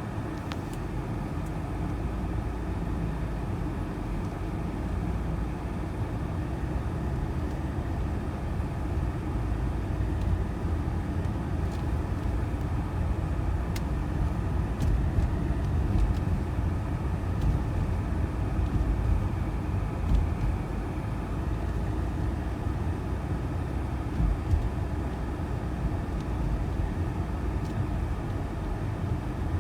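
Blizzard wind buffeting the microphone: a steady low rumble that swells and eases in gusts, with a few faint ticks.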